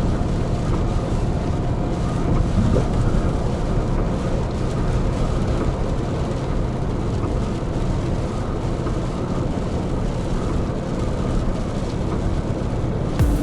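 Hino Profia heavy truck driving on a wet expressway in rain: a steady rumble of engine and tyre noise with a low drone underneath. Near the very end the sound cuts sharply to something else.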